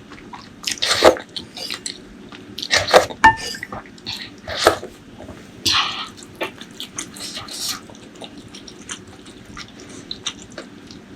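Close-miked eating: wet chewing and lip smacks at an uneven pace, with about five louder bites or slurps among softer mouth clicks.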